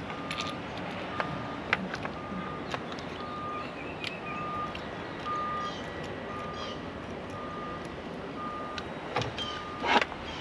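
An electronic beeper sounding short steady beeps about twice a second, like a reversing alarm, with scattered small clicks and knocks of parts being handled and a louder clatter near the end.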